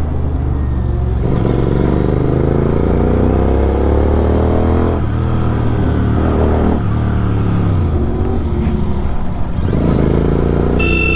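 Kawasaki Z900 inline-four with an SC Project exhaust, revving and pulling hard, its pitch climbing through the gears with breaks at the shifts. A vehicle horn sounds steadily near the end.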